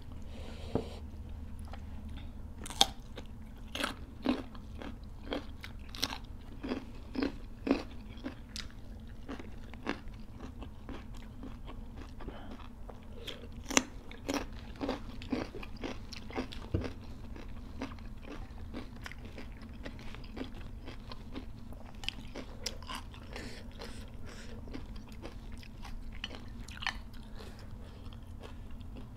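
Close-miked eating: chewing and crunching mouthfuls of rice, chicken curry and raw vegetables, with sharp irregular bites and crunches that are thickest in the first half.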